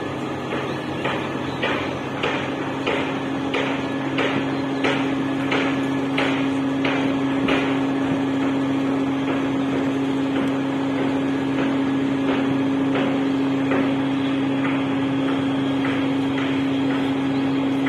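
A river dredger's engine running with a steady hum. Over it comes a regular knocking, about one and a half strokes a second, louder in the first half and fainter after that.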